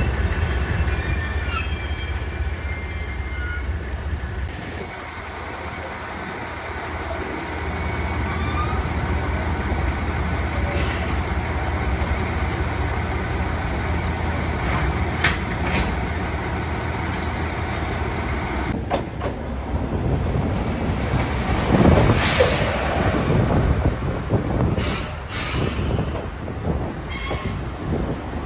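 JR Shikoku 1500 series diesel railcar running on the rails, a steady low rumble with a high thin wheel squeal in the first few seconds and scattered clicks. It grows loudest about three-quarters of the way through.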